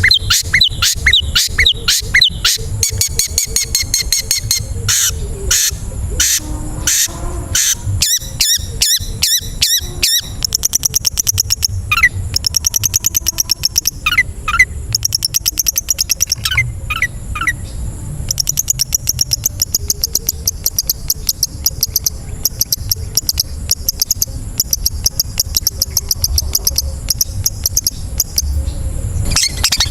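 Long-tailed shrike (cendet) singing a loud, fast song of rapidly repeated chirps and trills. The phrases change every few seconds.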